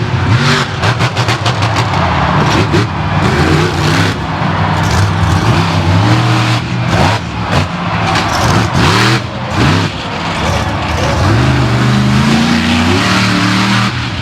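Monster truck engine revving hard, its pitch climbing and dropping again and again with a long rising rev near the end.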